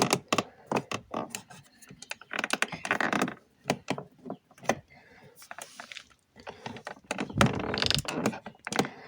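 Clipped-on plastic door trim being pried and worked loose by hand: a run of sharp clicks and knocks.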